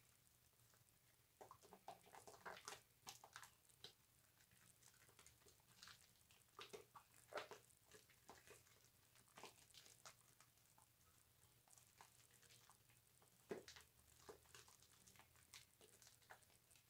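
Wet bar soap being lathered: faint, irregular squishes and small crackles of foam, close up.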